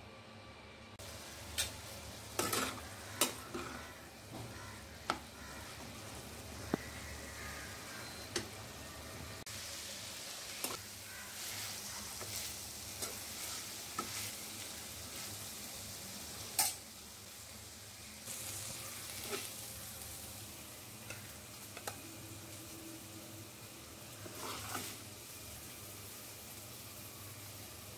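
Chicken keema (minced chicken) sizzling in a pan while a spatula stirs and scrapes it, with scattered clicks and knocks of the spatula against the pan. The sizzle is loudest in the middle.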